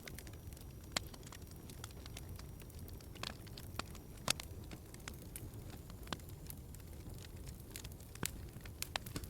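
Log fire crackling in a fireplace: scattered sharp pops and snaps over a low steady rumble, the loudest pop about four seconds in.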